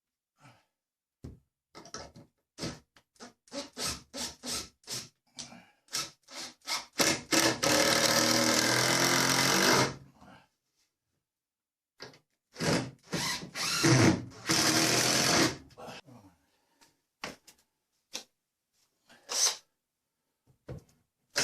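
Electric drill boring holes through timber: a string of short trigger bursts, then two longer steady runs of about three seconds each.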